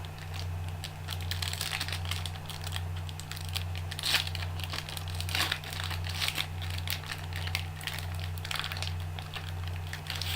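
Trading cards and their plastic wrapping being handled, a run of irregular crinkling and rustling, over a steady low hum.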